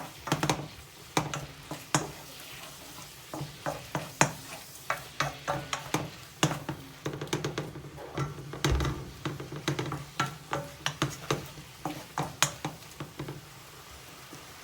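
Chicken pieces sizzling in a frying pan while being stirred, with frequent sharp scrapes and clicks of the utensil against the pan that stop near the end.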